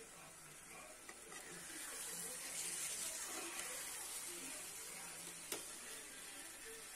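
Chicken curry sizzling in a steel pan as a steel spoon stirs it; the hiss swells about two seconds in, and the spoon clinks once on the pan about five and a half seconds in.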